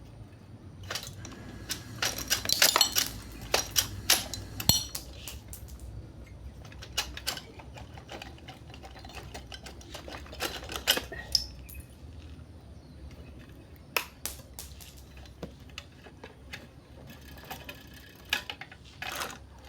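Small metal parts and tools clinking and clattering in irregular bursts of sharp clicks and knocks, busiest in the first few seconds and again near the middle.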